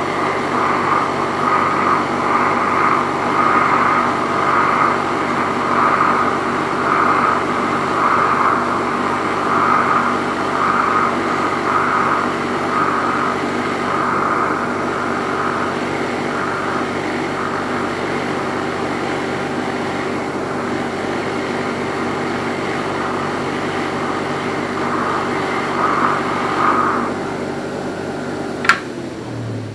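Motor-driven brass wire wheel running steadily while a piston crown is pressed against it to brush off carbon, the brushing swelling and fading about once a second. Near the end there is a sharp click and the motor winds down.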